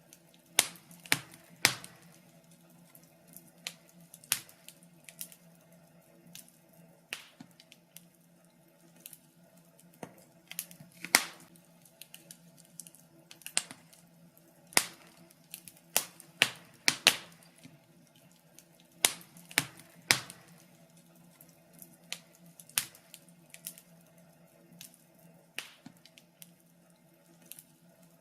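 Wood fire crackling: irregular sharp pops and snaps, a few every second or two, some louder than others, over a faint steady hum.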